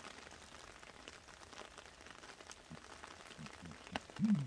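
Light rain pattering on leaf litter, with many small drop ticks. Near the end come a few short, low, falling sounds, the loudest of them just before the close.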